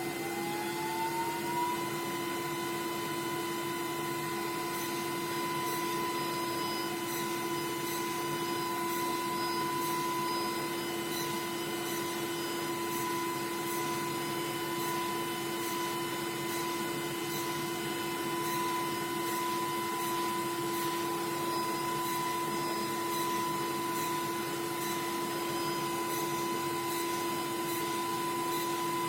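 LPKF ProtoMat S63 PCB drilling machine running: its spindle whine rises in pitch over the first two seconds and then holds steady over a steady lower hum, with faint regular ticking as it works.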